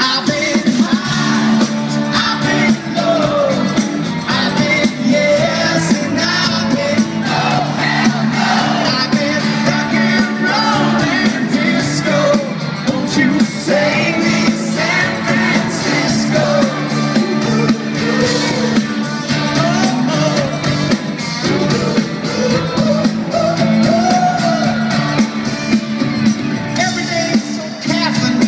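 Live pop-rock band playing a song, with a lead singer over the full band.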